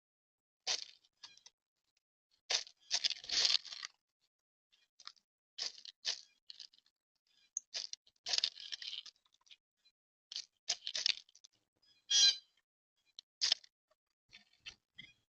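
Birds giving short, scratchy calls in scattered bursts, about a dozen over the stretch, with quiet gaps between them.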